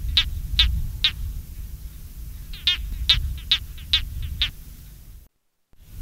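A small animal's short, high-pitched calls, repeated two or three times a second in two runs, over low rumbling background noise.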